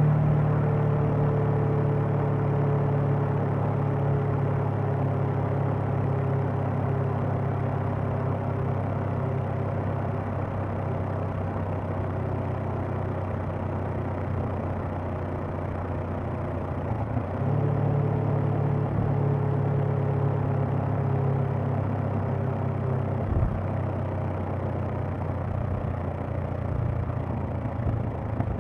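Honda CB500X motorcycle's parallel-twin engine and exhaust running at a steady cruise. The note eases off gradually, then picks up again with more throttle about two-thirds of the way through, before easing once more.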